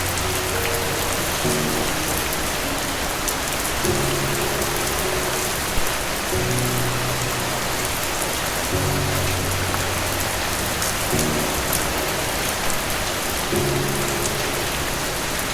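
Steady, dense rain hiss with sharp individual drops ticking through it, over soft low music notes that change every two to three seconds.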